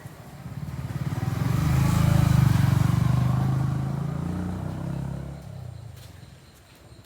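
A motor vehicle engine passing by: it grows louder over about two seconds, then fades away.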